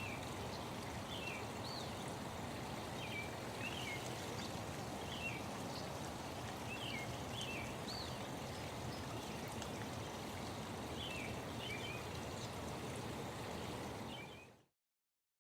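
Birds chirping in short, quick phrases over a steady rush of running water; the sound cuts off suddenly near the end.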